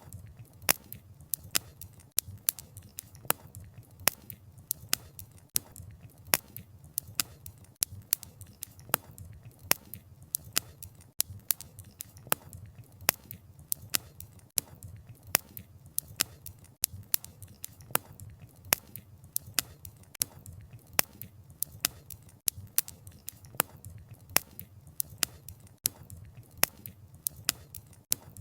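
Wood fire crackling: sharp irregular snaps and pops of burning wood, several a second, over a low steady noise from the fire.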